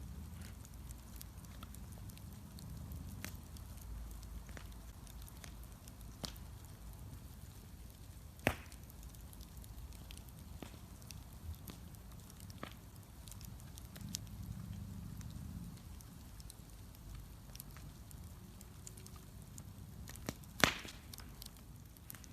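Wood bonfire crackling, with scattered small snaps over a low steady rumble of the flames and two loud sharp pops, about eight seconds in and again near the end.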